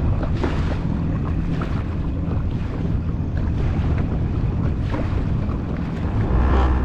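Jet ski engine running under way, with wind buffeting the microphone and water rushing past. The engine grows louder about six seconds in.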